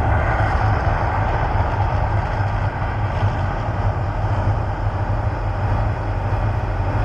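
Deep, steady rumble with an even roar over it, as from the Mirage volcano show's eruption effects.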